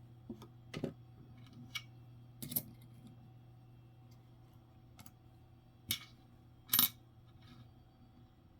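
Jefferson nickels being handled: a handful of light, irregular clicks and clinks of the coins, the loudest two near the end, over a faint steady hum.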